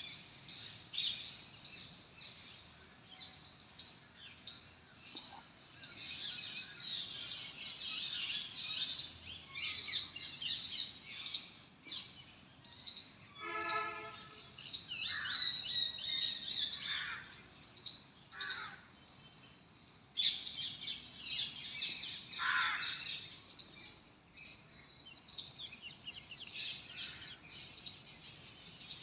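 Many small birds chirping and singing together in a dense, continuous chorus. Several louder calls slide downward in pitch, and one short, harsh call with many overtones stands out about halfway through.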